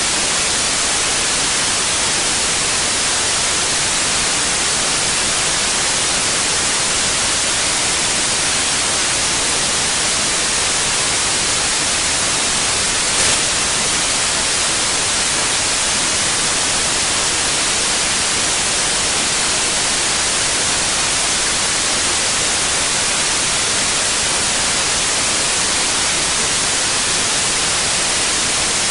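Steady white noise, an even hiss that does not change, with one brief click about halfway through.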